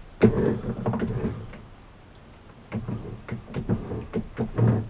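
Keyway being broached in EN8 steel on a lathe: a broaching tool scraping through the bore in short strokes, with the carriage and slide moving back and forth. A longer scrape at the start, a brief lull, then a run of quick clicks and strokes.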